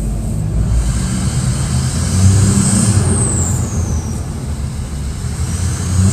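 Junkyard 5.3 LS V8 with an aftermarket stage 2 cam and valve springs, running naturally aspirated on turbo headers with no turbos fitted, so the exhaust is unmuffled; it runs loud and steady, a little louder about two seconds in. A high whistle rises and falls twice over the engine.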